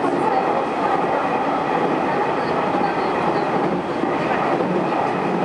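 Electric local train running along the track, heard from inside the front car: a steady rumble of wheels on rails.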